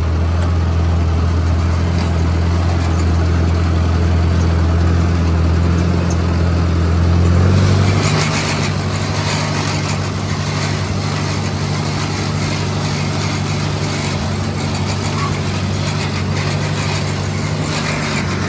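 Engine running steadily; about eight seconds in its low hum shifts to a higher pitch, with more noise above it.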